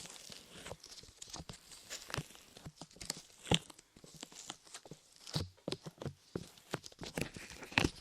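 Light modelling clay pressed and pulled on microphone ears: irregular sticky crackles and small pops, with sharper snaps about three and a half seconds in and near the end.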